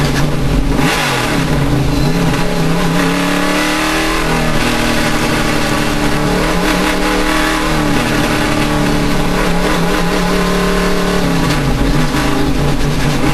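Race car engine running hard, its revs rising and falling several times as it accelerates and lifts.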